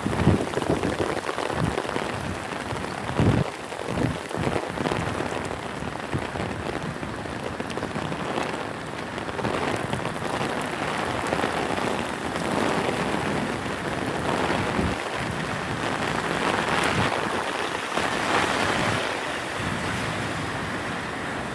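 Heavy downpour rain falling in a steady hiss, with a few low thumps in the first few seconds.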